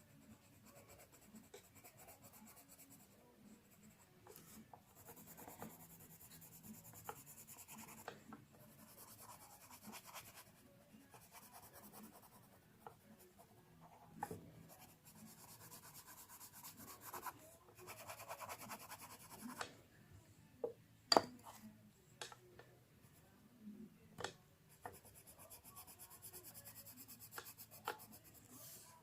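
Faint scratching of drawing strokes on paper, coming in short stretches with pauses. A couple of sharp taps, a little past two-thirds through, are the loudest sounds.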